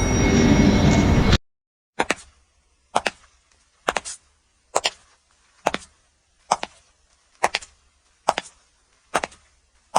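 A loud rushing noise cuts off suddenly just over a second in. After a short silence comes a steady series of sharp knocks, about one a second and nine in all, each followed by a quick lighter tap.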